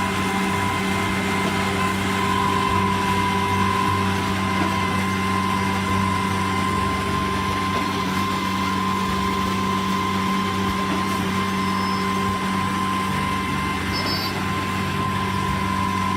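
A heavy truck's engine running steadily, with a constant whine over its hum.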